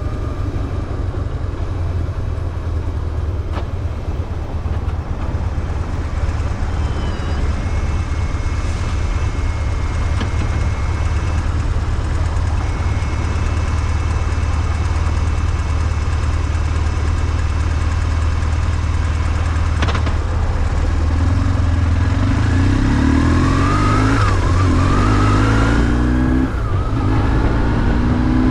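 BMW R1150GS boxer-twin motorcycle engine running at a steady low pitch under wind and road noise, then, about three-quarters of the way through, accelerating: the engine pitch climbs and falls back with each gear change.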